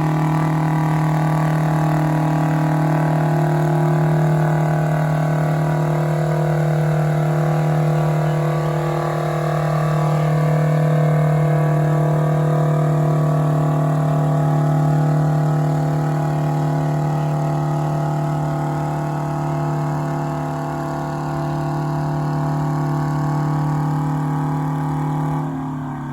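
An engine running steadily at a constant speed, giving a strong, even hum; it eases off near the end.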